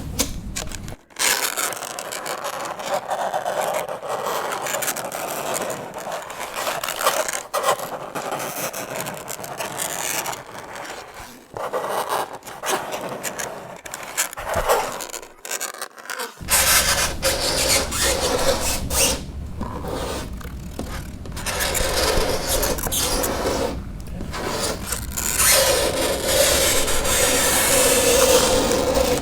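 Fingernails scraping across a chalkboard in long, repeated grating strokes with short breaks between them. At times, most clearly near the start and end, the scrape turns into a pitched squeal.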